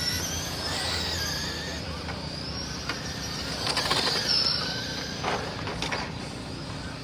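Radio-controlled trucks driving around a track: their motors whine, rising and falling in pitch as they speed up and slow down, with a few sharp clicks and knocks in between.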